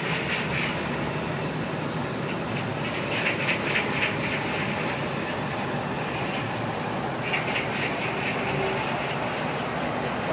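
Magpies giving harsh, rapid rattling chatter calls in several bursts, over a steady background rumble.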